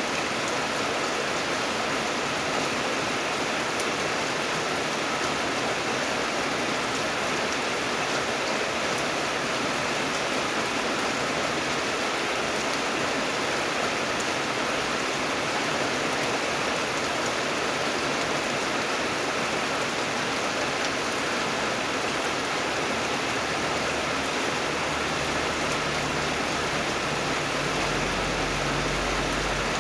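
Steady rain: a dense, even hiss of falling rain with no single drops standing out. A low rumble comes in near the end.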